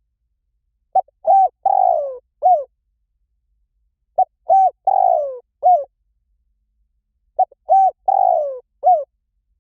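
Spotted dove (nok khao yai) cooing, three identical phrases about three seconds apart. Each phrase is a short note followed by a few hooked coos and one longer falling coo. It is a recorded call repeated as a lure to get other spotted doves to call back.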